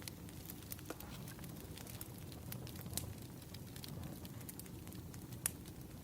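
Wood fire crackling: a steady low rumble of burning logs with frequent, irregular sharp pops and snaps, the loudest pop about five and a half seconds in.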